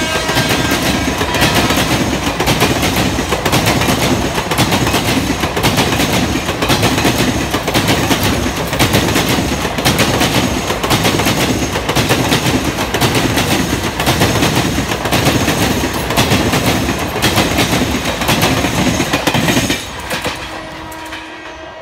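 Passenger coaches of a train hauled by a WAP4 electric locomotive passing at speed close by, their wheels making a loud rhythmic clatter over the rail joints. The clatter cuts off suddenly a couple of seconds before the end as the last coach goes by. A train horn is still sounding in the first second, and a horn sounds again faintly near the end.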